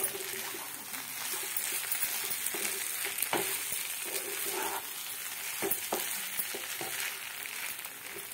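Rice frying with mushrooms in oil in a non-stick pan, sizzling steadily while a spatula stirs it, with scattered scrapes and taps of the spatula on the pan. This is the rice being dry-fried for a few minutes before water goes in.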